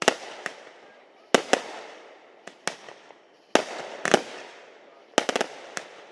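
Fireworks going off: a run of sharp bangs, each fading away after the hit, with a quick cluster of several bangs about five seconds in.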